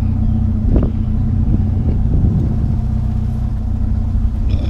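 Truck engine idling steadily, with a sharp knock about a second in and some clattering around two seconds in as scrap is handled.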